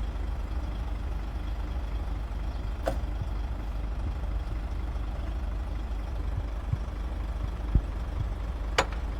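A heavy construction machine's diesel engine running steadily at a low rumble, with a sharp click about three seconds in and a knock and click near the end.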